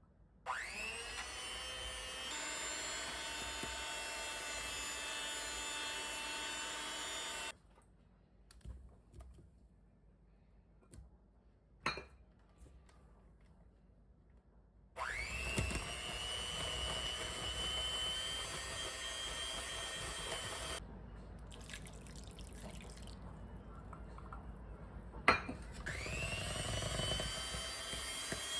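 Electric hand mixer whisking: the motor whine rises in pitch as it starts and cuts off sharply when switched off. It runs three times, with small knocks and clinks in the pauses between.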